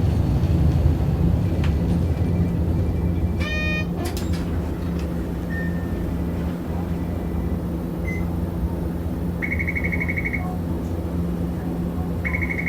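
Hiroshima Electric Railway type 650 tram No. 652 running, heard from inside the car: a steady low rumble of the motors and wheels on the rails. A short chime sounds a few seconds in, followed by a click, and two brief rapidly pulsing beeps come later, one near the end.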